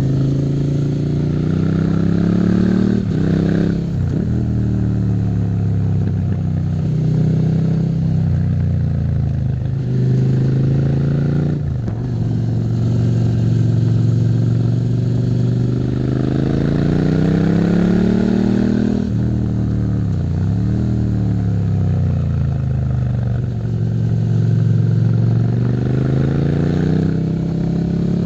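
Suzuki SV650's V-twin engine under way, its pitch climbing as the bike accelerates, then dropping sharply three times as the rider shifts or rolls off the throttle.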